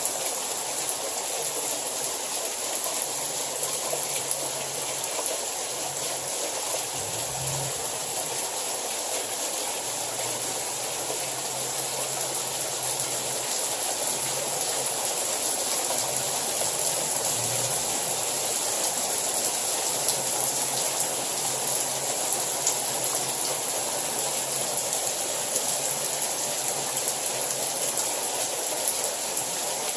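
Hail coming down hard, a dense steady patter peppered with many sharp ticks, growing a little louder about halfway through.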